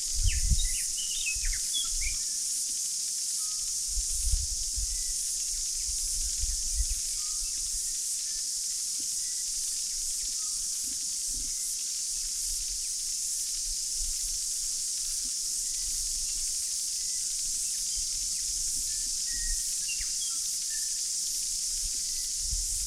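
Steady high-pitched insect chorus, with scattered short bird chirps and wind buffeting the microphone, most in the first seconds and again around four to seven seconds in.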